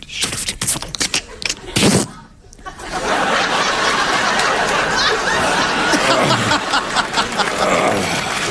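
Short bursts of vocal sound effects made into a microphone, the loudest about two seconds in, then a studio audience laughing from about three seconds in.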